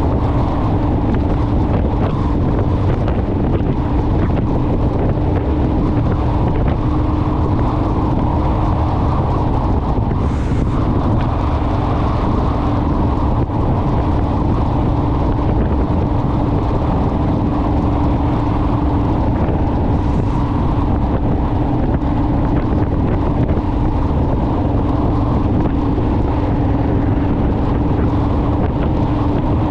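Honda Rebel motorcycle's parallel-twin engine running at a steady, even speed on the road, with wind rushing over the microphone.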